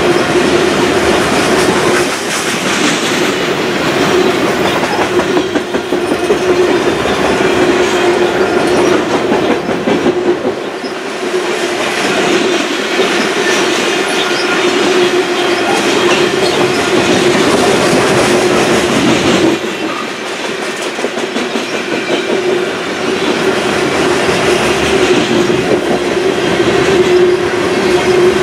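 Freight train's covered hopper cars rolling past close by, their wheels clattering on the rails with many short clicks over a steady rumble. A steady ringing tone runs through it.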